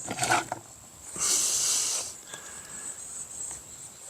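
Insects, likely crickets, trilling steadily as a constant high whine. About a second in comes a short, loud hissing rush lasting under a second.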